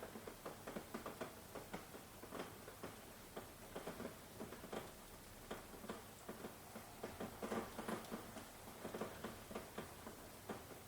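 Rain falling, with irregular drops pattering and tapping several times a second over a soft steady hiss.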